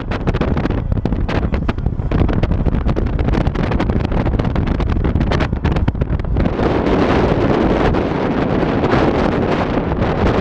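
Heavy wind buffeting the microphone, a loud rushing noise broken by rapid crackling gusts, turning into a denser, steadier rush about six seconds in.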